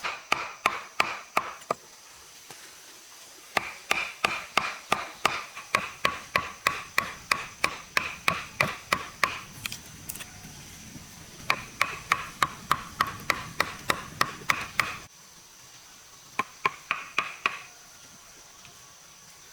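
Rapid, evenly paced strikes of a hand tool, about three a second, in several runs separated by short pauses; each strike has a short ringing tone. A faint steady high-pitched tone sits underneath.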